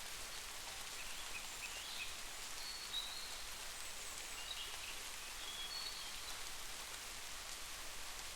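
Steady rain falling, an even hiss without thunder. A few short high chirps sound over it in the first half.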